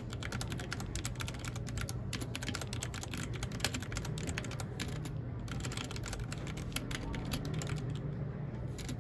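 Fast, continuous typing on a mechanical keyboard: a dense stream of key clicks that thins out near the end, over a steady low hum.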